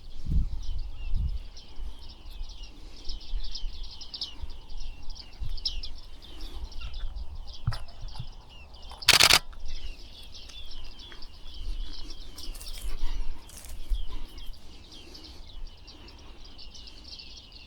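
A flock of bearded reedlings calling continuously, many short high calls overlapping. A brief loud knock about nine seconds in.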